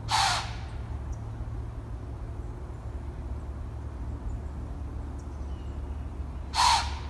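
A deer blows two sharp snorts through its nose, one near the start and one near the end, each a short loud hiss of air. This is the alarm or warning blow of a deer facing a person. A steady low rumble runs underneath.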